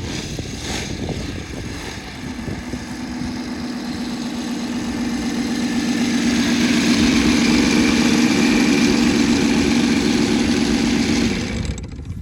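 ASP 400 radial glow engine of an RC Yak 55 running at a low, steady idle as the plane taxis in, growing louder for the first half as it comes closer, then cutting off abruptly near the end as the engine is shut down.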